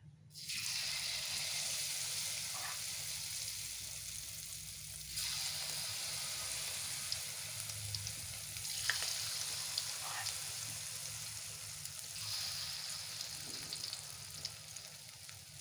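Tofu-and-egg batter frying in hot oil in a wok: a loud sizzle starts suddenly as the batter hits the oil and swells again about five seconds in.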